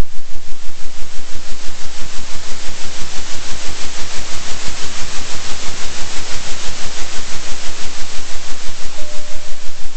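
Synthetic noise hiss oscillating in loudness about three times a second, a steady 3 Hz pulsing. A faint short tone sounds briefly near the end.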